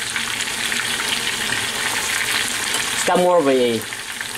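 Breaded chicken thighs frying in a pan of hot oil: a steady crackling sizzle. About three seconds in, a short voice with a falling pitch cuts in briefly over it.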